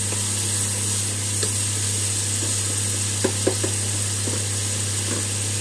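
Chopped onions and tomatoes sizzling in an iron kadhai as they cook down with salt, stirred with a wooden spatula that knocks against the pan a few times about three seconds in. A steady low hum runs underneath.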